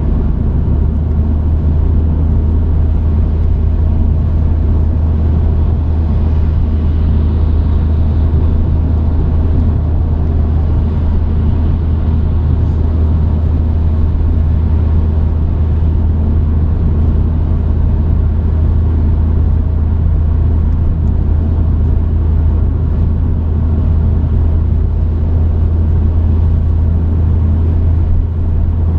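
Truck engine and road noise heard through a dash cam: a steady low drone with no change in pace.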